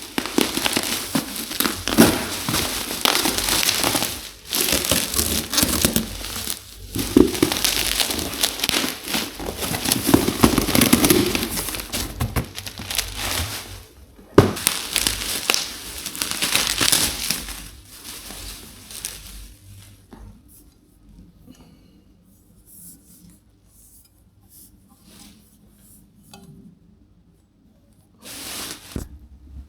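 Packaging being crumpled and torn: about twenty seconds of dense crinkling and rustling with short pauses, then only faint handling clicks, and a last brief rustle near the end.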